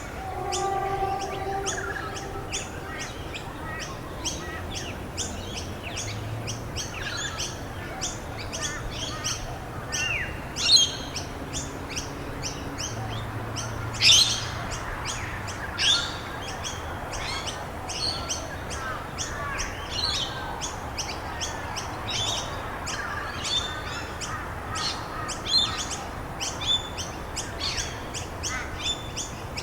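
Several songbirds chirping and calling in quick, overlapping phrases, with a few louder chirps about a third and halfway through, over a steady background hiss.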